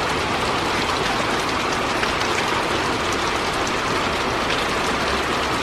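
Heavy rain pouring steadily during a thunderstorm, with a continuous low rumble of rolling thunder beneath it.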